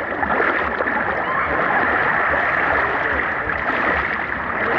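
Sea water sloshing and crackling with bubbles around a handheld GoPro held in the water. It is a steady, dense fizzing wash.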